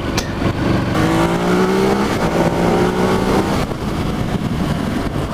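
Yamaha R6 sport bike's inline-four engine accelerating under way, its pitch climbing steadily for a couple of seconds and then falling away about three and a half seconds in, with a constant rush of wind and road noise.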